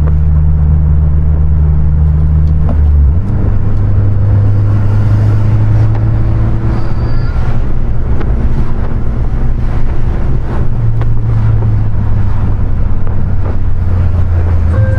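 2020 Honda Civic Si's turbocharged 1.5-litre four-cylinder engine pulling the car along with tyre and road noise. Its note steps up in pitch about three seconds in, then holds steady.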